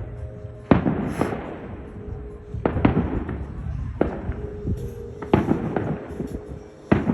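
A fireworks display going off: a string of sharp, irregularly spaced bangs, about one every second or two, each dying away after the burst.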